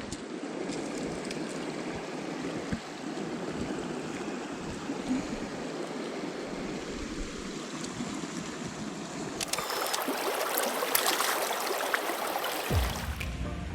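Stream water running steadily over rocks; about nine and a half seconds in the rushing gets louder and brighter. Music comes in just before the end.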